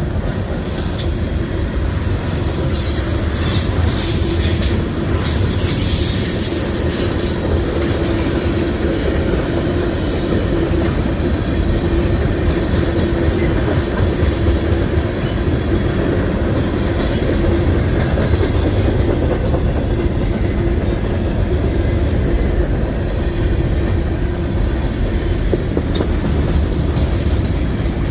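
A train rolling past at close range: steady rumble of wheels on rail with clickety-clack over the rail joints, and high wheel squeal a few seconds in.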